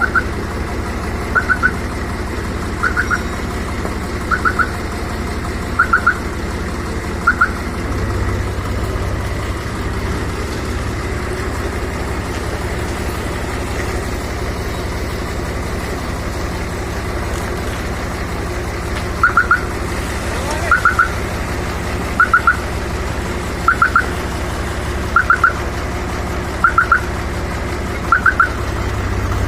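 Tractor engine running steadily. A short, high, doubled chirp repeats about every second and a half, stops about eight seconds in, and starts again about ten seconds later.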